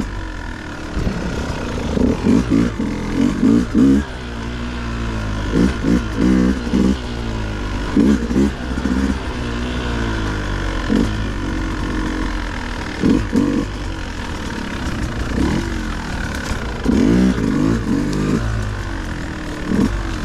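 Dirt bike engine blipped in repeated short bursts of revs, rising and falling, over a steady lower running note, as the bike picks its way up rough, rocky single track.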